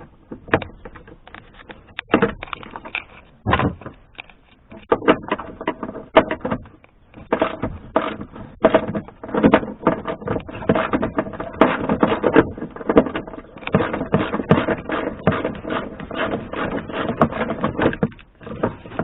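Plastic interior roof trim and push-type clips of a Suzuki Kei being worked loose by hand. It makes a dense run of irregular clicks, knocks and scraping rattles, with a short pause about seven seconds in.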